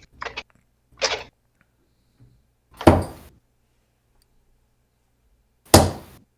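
Three darts thudding into a dartboard one after another, a couple of seconds apart; the second and third hits are the loudest.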